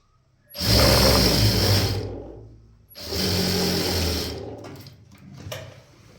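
Sewing machine running in two short stitching runs, each about a second and a half long, with a pause between them.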